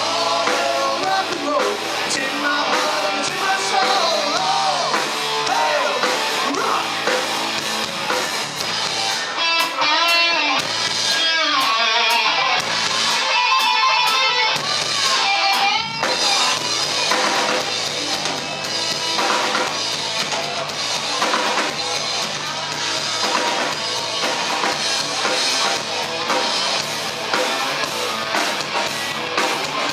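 Rock band playing live through an instrumental passage with no vocals: a lead guitar line with bending notes over drum kit and guitars.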